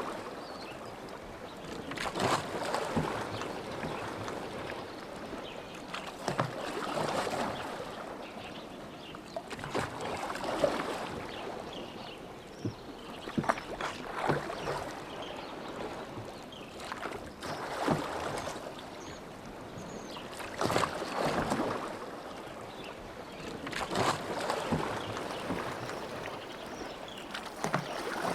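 Rowboat oars dipping and pulling through lake water: a splashing, dripping swell about every three and a half seconds, each stroke with a few sharp knocks.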